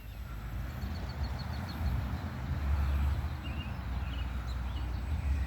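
Wind rumbling on the microphone, swelling in the middle, with a few faint high chirps over it.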